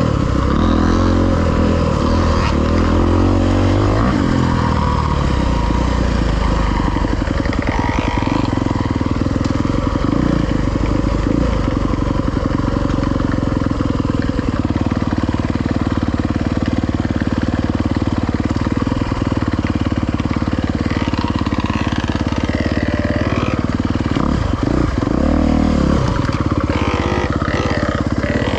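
Dirt bike engine running on a trail ride, its revs rising and falling with throttle and gear changes, with pitch shifts in the first few seconds and again near the end.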